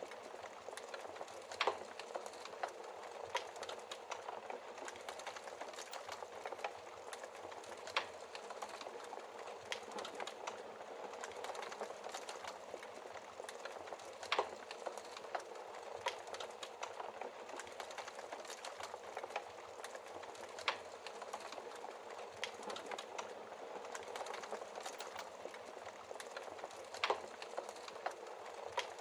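Wood fire crackling in a fireplace: a dense run of small crackles over a soft hiss, with a sharper, louder pop about every six seconds.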